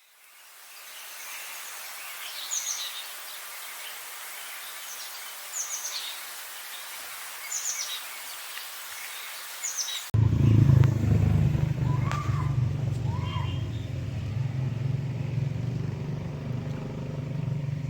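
Outdoor ambience of birds calling: a steady high hiss with five short, sharp falling chirps. About ten seconds in, it cuts abruptly to a much louder, steady low hum, with a couple of short chirps over it.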